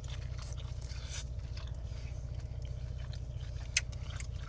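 Quiet eating sounds: chewing and a utensil scraping a takeout bowl of tofu noodles, with one sharp click a little before the end, over a steady low hum.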